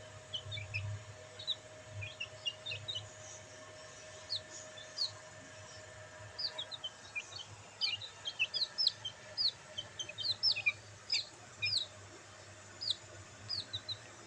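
Bantam chicks chirping: many short, high peeps, coming thicker and louder in the second half.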